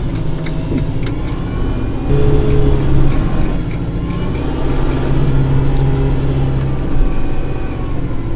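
Kubota tractor's diesel engine running steadily with the snowblower working, a little louder about two seconds in.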